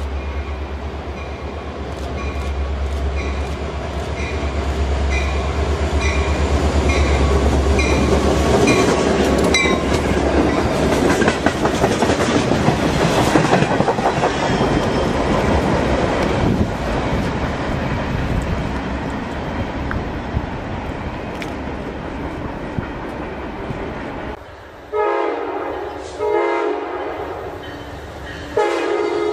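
CSX freight train with EMD diesel locomotives approaching and passing close by: a steady low engine drone that swells into loud engine and wheel noise as the locomotives go past, then the freight cars rolling by with wheel clatter. Near the end a different passenger locomotive sounds its horn in three blasts.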